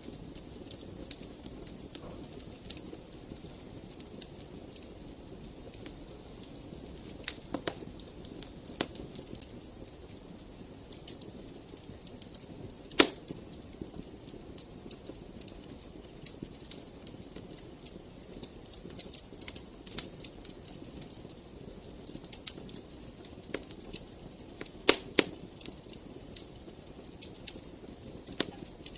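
Fireplace fire crackling: irregular sharp pops and snaps over a low steady hiss, the loudest pop about thirteen seconds in.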